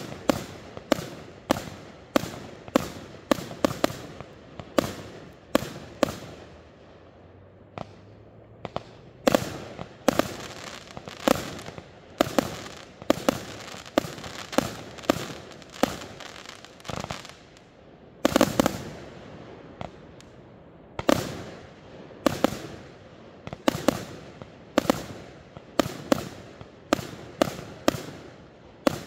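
Fireworks display: aerial shells bursting in a rapid string of sharp bangs, about two a second, each trailing off in echo. There is a short lull around seven to nine seconds in and a louder cluster of bangs just after halfway.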